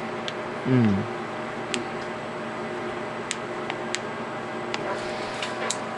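Steady hum of machine or fan noise in a small room, with about seven sharp, scattered clicks and a brief low vocal 'mm' about a second in.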